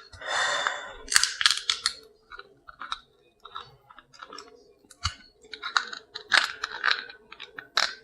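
A shellfish claw being cracked with a metal seafood cracker: clusters of sharp crunching and clicking shell cracks, with a brief rustle near the start.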